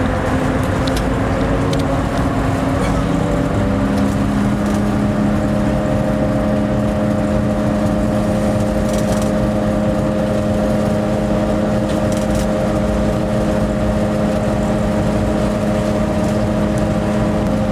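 Locomotive running, heard from inside the cab: a steady rumble with humming notes that step up in pitch about three and a half seconds in.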